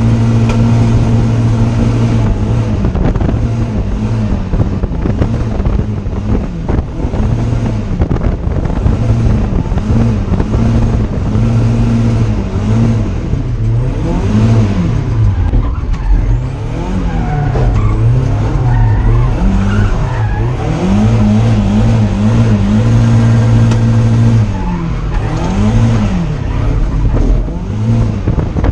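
Drift car engine at high revs, held steady for stretches of a few seconds and dropping and climbing again between them, with tyres skidding on the track.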